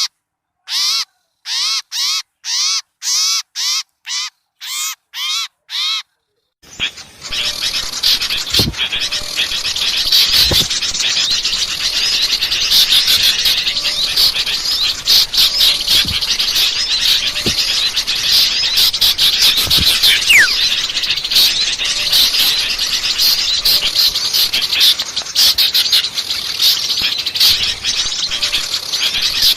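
Bird-lure recording: about ten short, harsh repeated calls with dead silence between them, then from about seven seconds in a dense, noisy chorus of many small birds chirping and twittering without a break.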